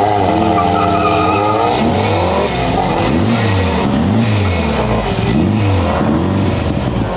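Two cars launching hard on a quarter-mile drag strip, engines revving up through the gears. From about two and a half seconds, a car engine at the start line is revved up and down about once a second.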